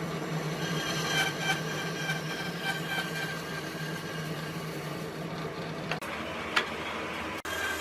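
A motor running with a steady hum and a few high whining tones. The sound changes abruptly about six seconds in and again near the end.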